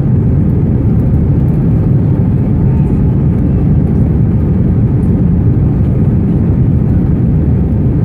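Airbus A319 cabin noise: a steady low drone of jet engines and airflow, heard from inside the passenger cabin.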